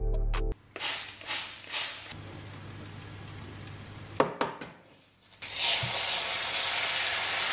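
Frying sounds: a quieter sizzle from bacon medallions under an oven grill, with a couple of sharp clicks a little past the middle, then a loud, even sizzle as an egg is cracked into a hot frying pan over the last two seconds.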